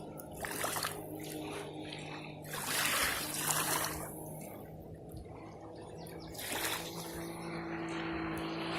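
A jet ski engine running with a steady hum, under the rush of water. The water noise swells twice, about two and a half seconds in and again near seven seconds.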